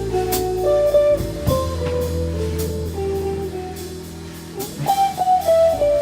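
Jazz-blues instrumental: an electric guitar plays a single-note melody over bass and drum kit with cymbal hits. The line dips quieter about two-thirds in, then picks up with quick runs near the end.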